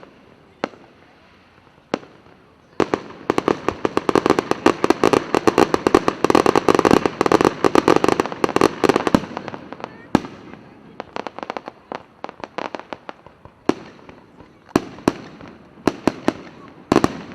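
Fireworks going off: a few single bangs, then about three seconds in a dense, rapid volley of reports lasting some six seconds, thinning out to scattered bangs.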